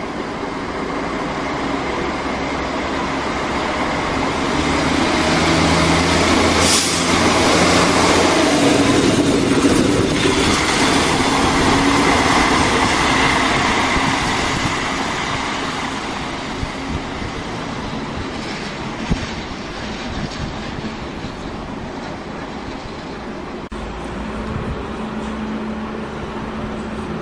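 Czech class 810 diesel railbus passing close by, its engine running and its wheels running on the rails. It grows louder to a peak around ten seconds in, then fades to quieter rail noise, with a steady low hum near the end.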